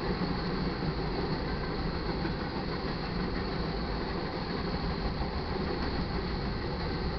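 Freight cars of a manifest train rolling steadily past, their steel wheels running on the rails.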